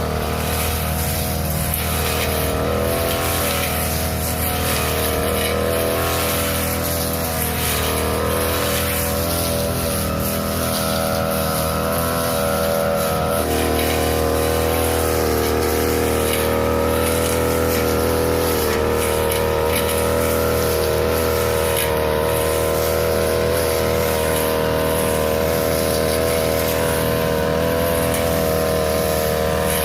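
The small petrol engine of a grass-cutting machine running steadily at working speed as it cuts grass. Its note shifts slightly about halfway through.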